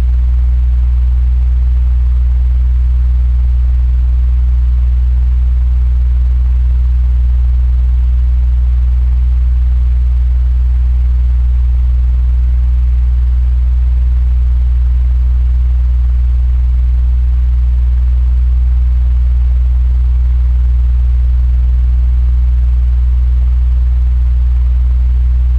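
Electric fan running steadily: a loud, even low hum with a faint airy hiss over it.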